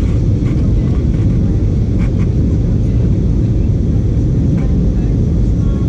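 Airbus A320-232 cabin noise: a loud, steady low rumble of the IAE V2500 turbofans and rushing air, heard from inside the cabin during the approach and landing, with faint passenger voices under it.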